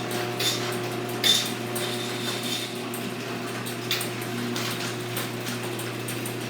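A Craftsman garage door opener running as it raises the door. It makes a steady motor hum, with scattered clicks and rattles from the drive and door; the sharpest comes a little over a second in.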